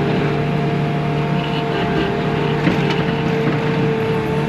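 Bobcat T630 compact track loader's four-cylinder diesel engine running at a steady speed, a constant drone with a steady whine over it.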